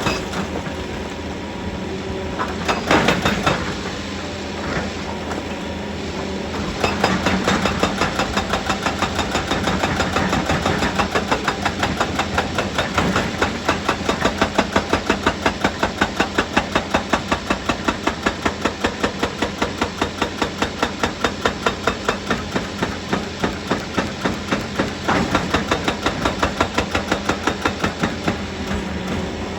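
Heavy machinery running steadily, joined about seven seconds in by a rapid, even knocking that goes on to the end.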